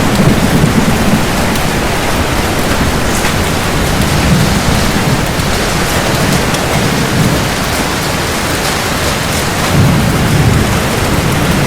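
Heavy rain falling steadily, with low thunder rolling in and out several times, strongest about ten seconds in.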